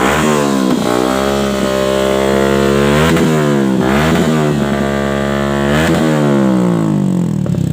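Yamaha Xabre's single-cylinder engine revved through a racing full-system exhaust with an Akrapovic muffler. It takes four throttle blips, each rising sharply and sinking back slowly toward idle.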